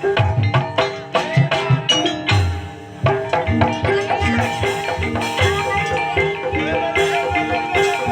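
Gamelan music accompanying an Ebeg horse dance: mallet instruments strike a repeating melody over kendang hand-drum strokes. Near three seconds in, it briefly drops, then settles into a steady rhythm.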